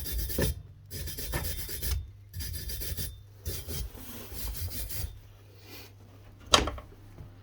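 A hand tool rasping over a freshly welded motorbike exhaust in uneven scraping strokes for about five seconds, then a single sharp knock.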